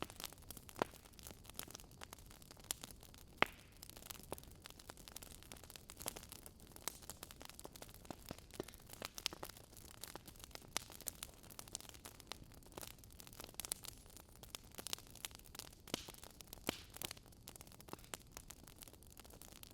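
Wood fire burning in a fireplace, crackling: irregular sharp pops and snaps over a soft, steady hiss of the flames. One pop about three and a half seconds in is louder than the rest.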